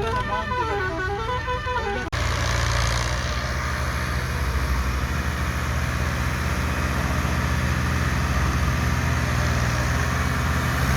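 Al Ghazi tractor's diesel engine running steadily. For the first two seconds a horn sounds over it with a warbling pitch that rises and falls, then cuts off abruptly.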